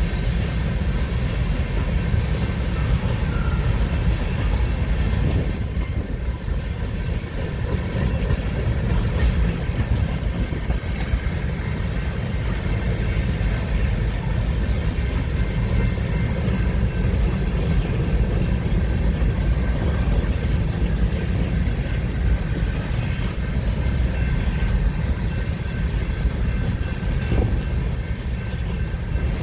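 A train rolling past with a steady low rumble and faint steady high tones from the wheels.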